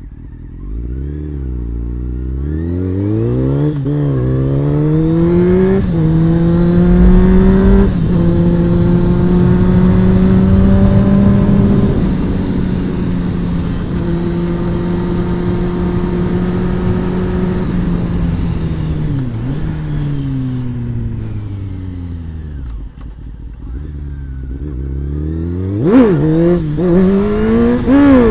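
Honda CBR600 inline-four engine accelerating hard, its pitch climbing and dropping back with three quick upshifts, then holding steady at speed before the revs fall away as the bike slows. A sudden sharp rev near the end, with wind rushing over the helmet-cam microphone throughout.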